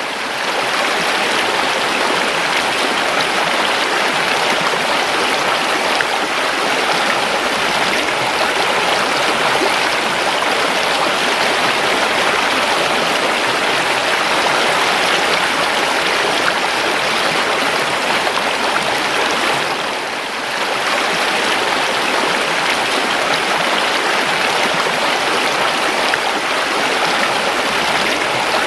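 A river flowing steadily, a continuous even rush of moving water, with a brief dip in level about two-thirds of the way through.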